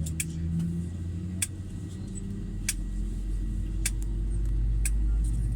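Low steady hum inside the cabin of an Airbus A319 on the ground before takeoff, swelling slightly about two seconds in, with short sharp clicks roughly every second.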